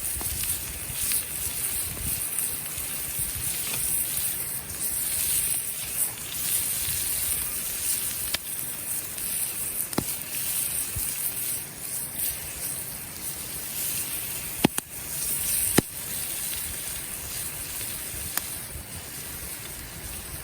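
Wood campfire crackling with a steady high hiss and a sharp pop every few seconds.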